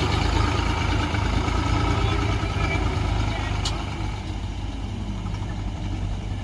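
Heavy diesel engine running steadily with a deep, low hum, easing a little in level and pitch in the second half.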